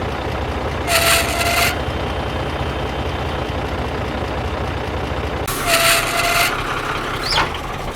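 A small motor running with a steady low pulsing, broken by two short hissing bursts, about a second in and again about five and a half seconds in. The low pulsing drops away at the second burst.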